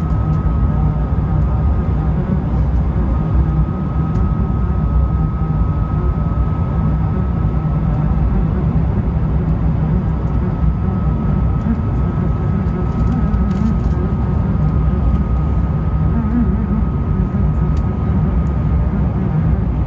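Airbus A220-300 cabin noise in flight on descent: the steady low rumble of the airliner's engines and airflow, with a thin steady high tone running through it.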